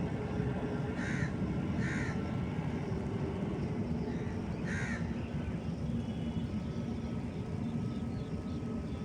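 A crow cawing three times, about a second in, at two seconds and near five seconds, over a steady low rumble.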